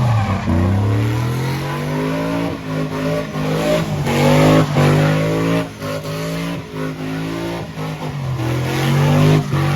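Truck engine revving hard, climbing in pitch about half a second in and holding, with further climbs about four seconds in and near the end.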